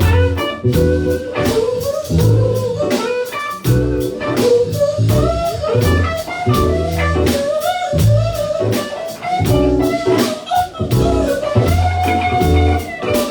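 A band plays an instrumental passage with guitar, bass and drum kit, with a steady beat and no vocals.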